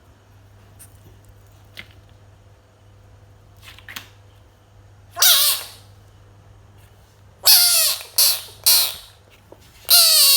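A pet frog calling: one loud call falling in pitch about five seconds in, then a quick run of four more from about seven and a half seconds.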